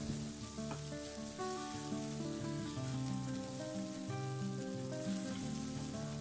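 Background instrumental music playing slow, stepped notes over the steady sizzle of poppy seed and garlic paste frying in a pan.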